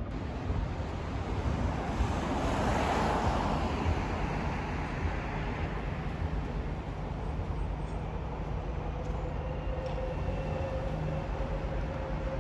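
Docklands Light Railway train running on the track: a steady rumble that swells about two seconds in, with a steady motor hum over it from about halfway through.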